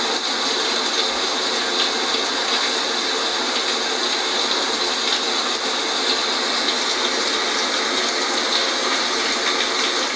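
Steady rain ambience: an even, unbroken rush of rainfall with no separate drops or changes.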